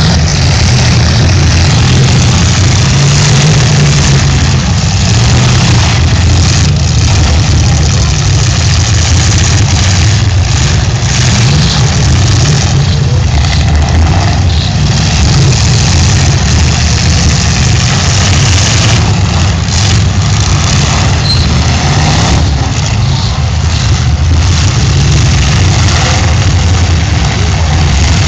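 Several demolition derby cars' engines running and revving together, a loud, steady low drone.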